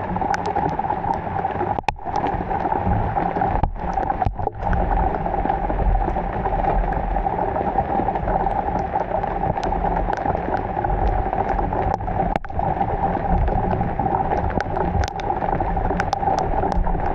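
Steady heavy rain, with scattered sharp drop ticks over an even hiss; the sound cuts out for an instant a few times.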